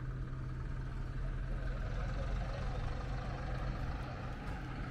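A steady, low engine-like hum with a constant low drone, over general outdoor background noise.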